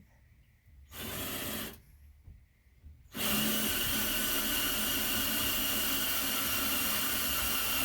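Power drill running: a short burst about a second in, then a steady run of several seconds from about three seconds in, with a constant high whine.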